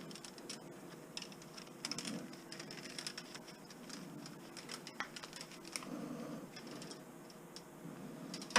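Scrap insulated electrical wire being handled and cut by hand, giving scattered irregular clicks, snips and rustles over a faint steady hum.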